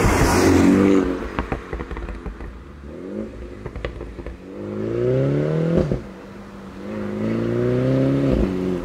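Mini John Cooper Works with the JCW Pro exhaust accelerating hard away, its turbocharged four-cylinder engine rising in pitch through one gear. There is a sharp crack at the upshift just before the middle, then the engine rises again in the next gear. It opens with a loud rush as the car goes by.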